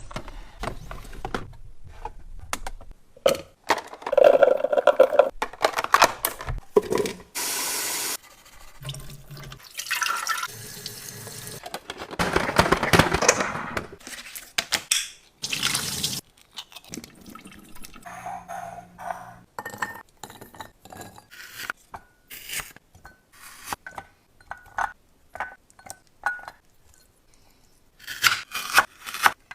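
Assorted kitchen handling sounds, with many separate clicks, knocks and rustles, broken by several stretches of running water from a sink tap lasting a second or two each.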